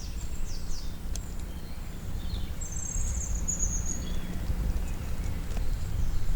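Small birds chirping, with a high rapid trill about three seconds in, over a steady low rumble.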